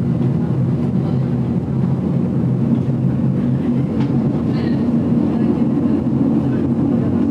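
GoldenPass Belle Époque train running along the line, heard inside the carriage: a steady rolling rumble with a low hum, and a single sharp click about four seconds in.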